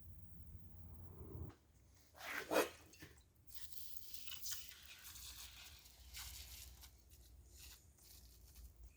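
Intermittent scraping and rustling from hand cleaning work on an engine block. One louder scrape comes about two and a half seconds in.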